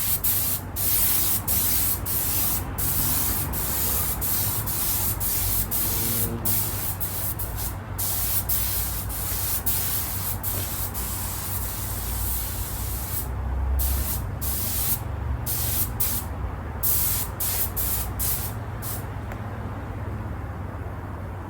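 Trigger spray gun spraying leather paint onto car seats: a loud hiss in many short pulls of the trigger with brief breaks, stopping near the end, over a steady low hum.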